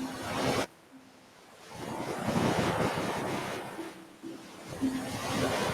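Ocean waves breaking and washing up a beach. Surges of surf swell and fade: one cuts off sharply just after the start, another builds about two seconds in, and a third comes near the end.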